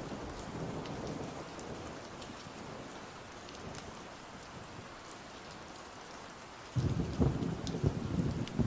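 Steady rain with a low thunder rumble that dies away, then a sudden loud thunder rumble breaking in near the end. Scattered small crackles from a fireplace sound over the rain.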